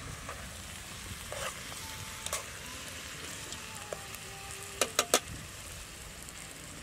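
Chopped eel and herbs sizzling in a metal pot over a wood fire while being stirred with a spoon, a steady frying hiss. Three sharp clicks, the loudest sounds, come close together about five seconds in.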